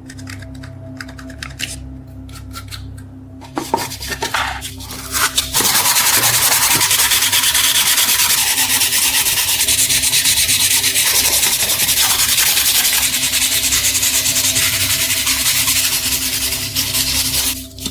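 Abrasive sanding of the rusted knife: a few scattered clicks and knocks, then about twelve seconds of loud, continuous rubbing with a fast, even rhythm that stops shortly before the end.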